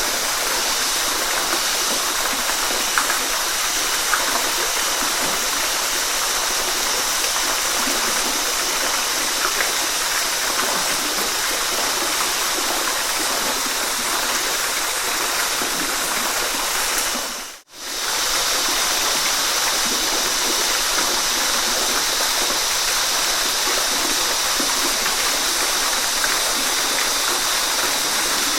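Waterfall, a steady rush of falling water. The sound drops out for a split second about two thirds of the way through, then resumes unchanged.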